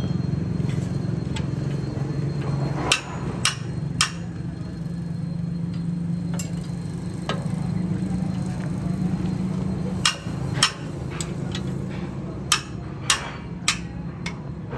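Sharp hammer blows on metal at irregular intervals, in two bunches, over a steady low machine hum.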